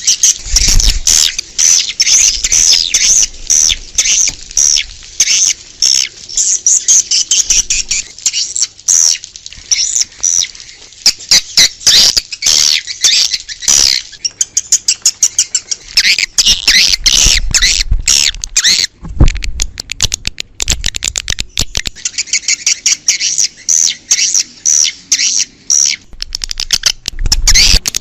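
Swiftlets calling: a dense, unbroken chorus of quick high chirps and twitters, of the kind played from outdoor speakers to lure swiftlets to a swiftlet house.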